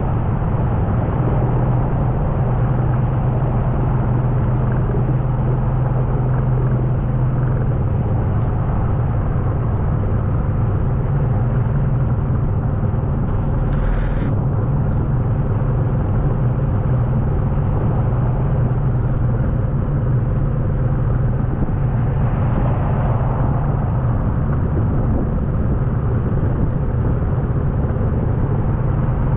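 Steady low rumble of a vehicle engine running, over the continuous rush of floodwater across a road ford, with a brief hiss about 14 seconds in.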